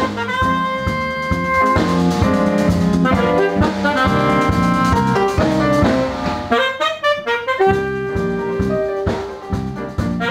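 Live jazz quartet playing, a saxophone carrying the melody in long held notes over piano, bass and drum kit.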